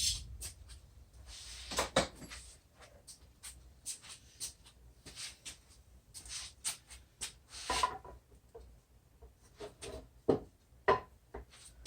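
Scattered light knocks, clicks and brief scrapes of wood and hand tools being handled on a bench, with no power tool running.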